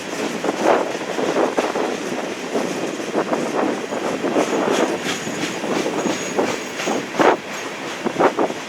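Railcars rolling past, their wheels clicking irregularly over the rail joints, with a faint high wheel squeal midway, against heavy wind noise on the microphone.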